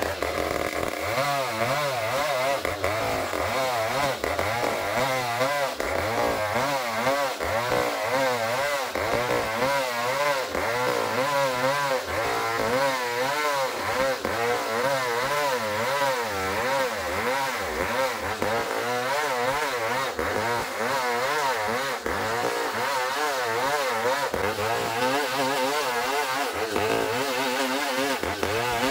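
Chainsaw cutting through ulin (Bornean ironwood), its engine running under load with the pitch wavering up and down continuously as the cut goes on.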